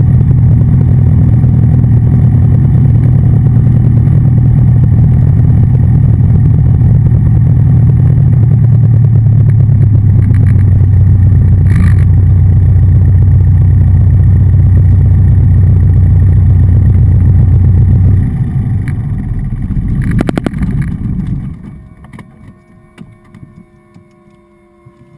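Cessna 177RG Cardinal's four-cylinder Lycoming engine and propeller running steadily at low power. Its note drops about a third of the way in, and near the end the engine dies away with a brief rattle and stops.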